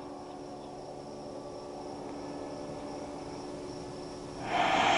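Steady insect chirring, crickets, in quiet outdoor ambience. About four seconds in, a broad rush of noise swells up and stays.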